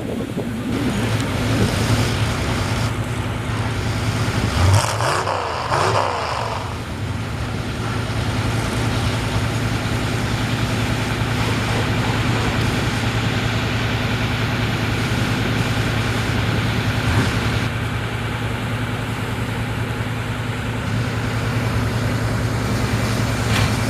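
Large truck engine running steadily, with a brief swell in pitch about five seconds in.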